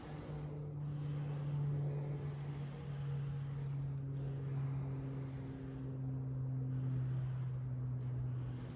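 A low, steady engine-like drone, its pitch sinking slowly, over the faint crackle of a wood fire burning in a rusty can.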